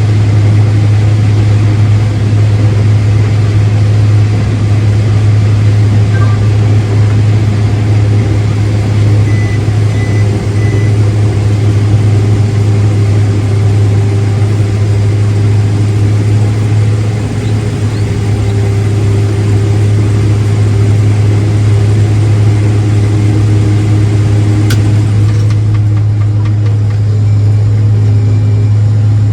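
Farm machinery engine running at a steady speed: a loud, constant low drone that holds the same pitch throughout.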